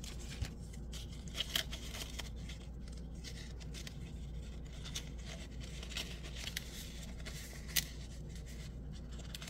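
Stickers and small packaging pieces handled by hand: a few scattered light clicks and faint rustles over a steady low hum.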